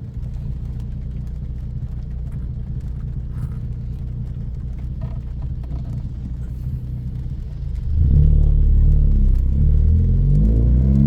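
Tuned 2014 Ford Focus ST's turbocharged 2.0-litre four-cylinder, fitted with a high-flow catted downpipe and a straight 2.5-inch exhaust, running under way with a steady low drone. About eight seconds in it gets much louder as it accelerates, the engine note climbing and dipping with the revs.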